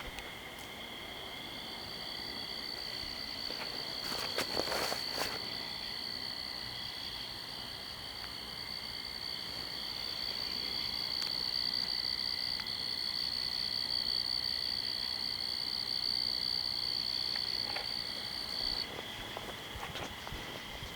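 Night insect chorus: several steady high trills of crickets or similar insects, the loudest stopping suddenly near the end. A brief rustle about four to five seconds in.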